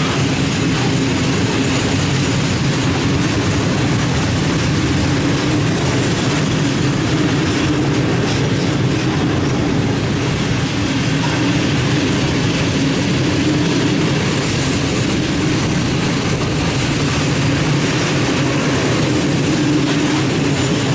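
Container flat wagons of a freight train rolling past: a steady, loud rumble of steel wheels on the rails.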